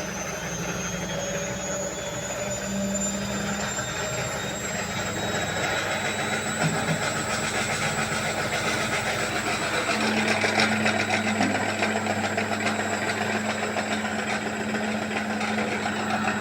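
Hisense washing machine spinning up to high speed and running noisily. A high motor whine rises in pitch over the first several seconds, then holds steady over a low hum and a rumbling vibration that grows a little louder.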